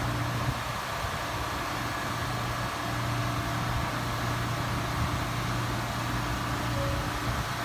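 Steady low hum over a bed of traffic noise, with no clear rise or fall.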